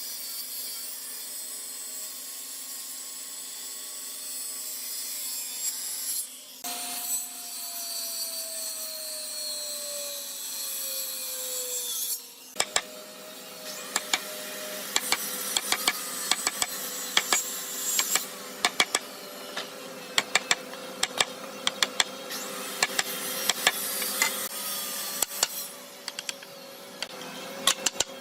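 Wood being cut or rasped by a tool: a steady scraping noise, with a tone slowly falling in pitch partway through. After a brief drop, a long run of sharp, irregular clicks and knocks follows over a steady hum.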